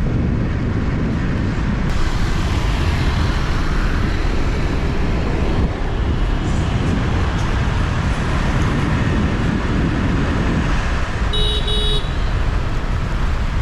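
Riding on a motorbike through dense city traffic: a steady mix of engine and road noise, with a vehicle horn beeping briefly near the end.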